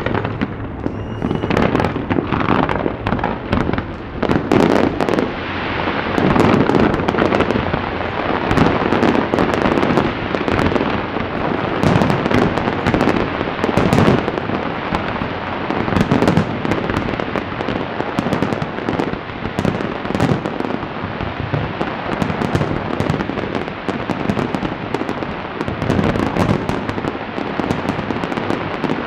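Large fireworks display: a dense, unbroken barrage of aerial shell bursts and crackling stars, with a brief rising whistle about a second in.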